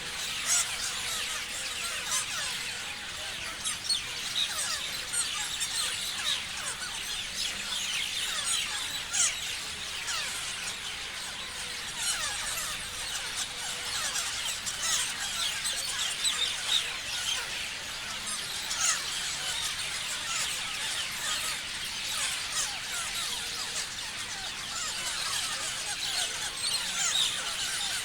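A flock of parrots chirping all at once: a dense, unbroken chatter of many short, overlapping high calls.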